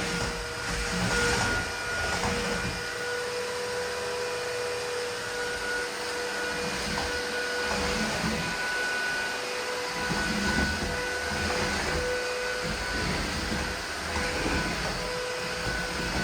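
Aspiron cordless wet-and-dry vacuum mop running: a steady motor whine with two held tones over a rushing hiss, and a low rumble that comes and goes.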